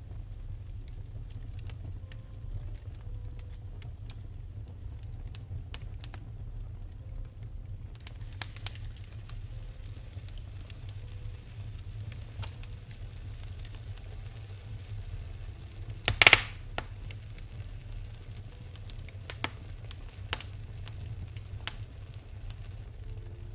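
Fireplace fire crackling, with scattered sharp pops over a steady low rumble; one loud pop about two-thirds of the way through.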